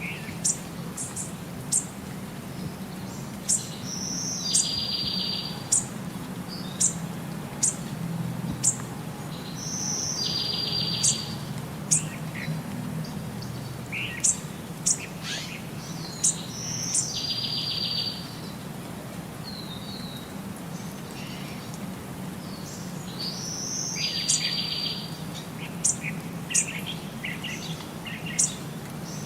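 A bird calling: short, sharp high-pitched chirps scattered throughout, and a buzzy trill of about a second that repeats roughly every six to seven seconds. A steady low hum runs underneath.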